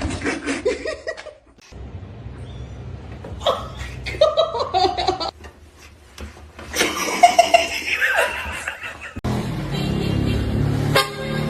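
People laughing over music, in several short pieces cut one after another.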